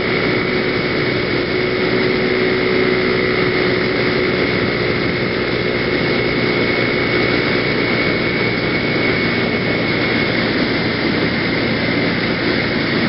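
PGO BuBu 125cc scooter engine running at a steady cruising speed with a steady whine, mixed with wind rushing over the helmet-mounted camera.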